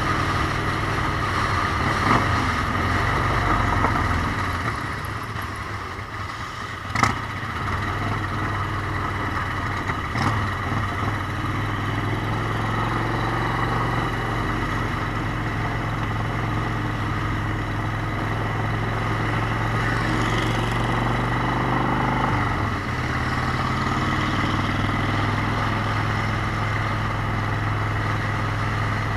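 Motorcycle engine running steadily under way, with a constant rush of wind and road noise. There is a sharp click about seven seconds in, and the engine note shifts about three-quarters of the way through.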